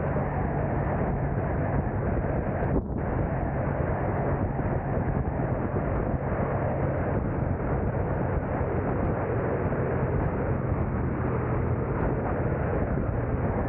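Steady driving noise of a car on the move: a continuous low hum of engine and tyres on the road, with a short dropout about three seconds in.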